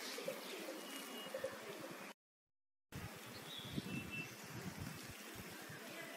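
Faint outdoor ambience with a few short, high bird chirps. The sound cuts out completely for under a second about two seconds in, then resumes.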